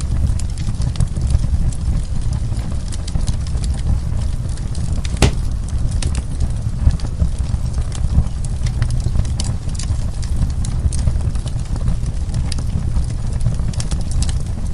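Wood fire crackling, with frequent small pops over a steady low rumble; one sharper pop about five seconds in.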